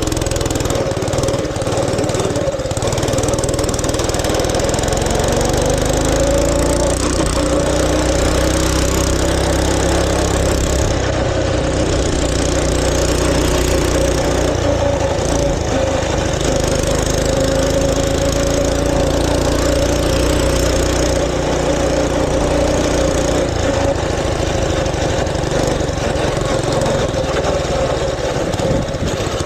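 Mini bike's small engine running while being ridden, its pitch rising and falling gently as the throttle changes.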